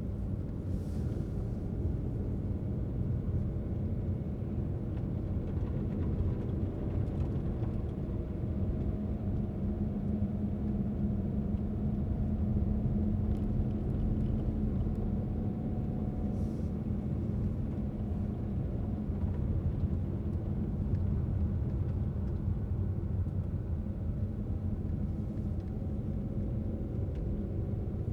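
Car driving at steady speed: a continuous low road and engine rumble, with an engine hum that grows a little stronger midway.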